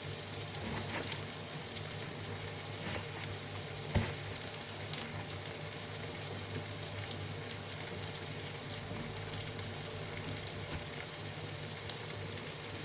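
Stew frying in oil in a pot, a steady sizzle with faint crackles, and one sharp knock about four seconds in. A low steady hum runs underneath.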